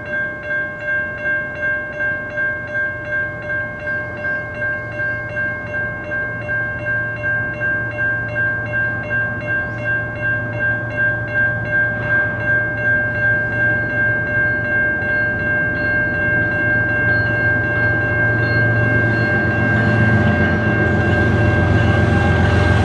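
A bell ringing steadily at about two strokes a second while an approaching train's rumble grows louder toward the end.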